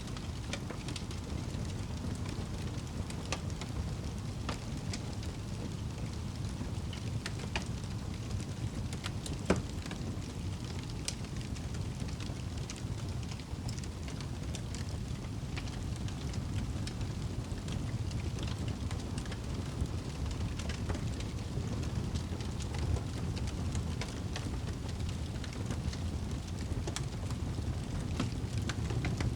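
Wood fire burning in a fireplace: a steady low rumble of the flames with scattered small crackles and one louder pop about nine and a half seconds in.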